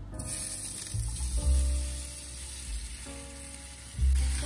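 Raw potato wedges sliding into hot oil in a frying pan, setting off a loud sizzle that starts just after the beginning. Piano music plays in the background.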